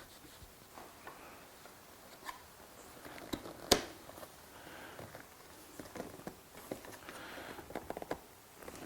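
Hands handling seat-rail parts: scattered small clicks and knocks of plastic and metal, with one sharper click a little under four seconds in and a quick run of clicks near the end.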